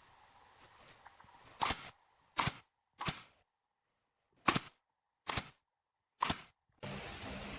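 Six sharp knocks at uneven intervals, each short and cut off cleanly.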